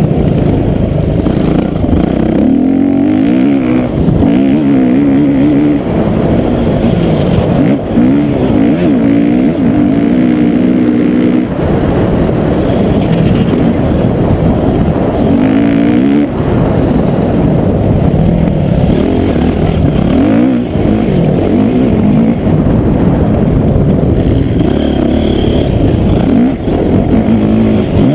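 Motocross dirt bike engine running hard as the bike is ridden, its pitch rising and falling again and again as the rider revs up and backs off. The sound is loud and muffled.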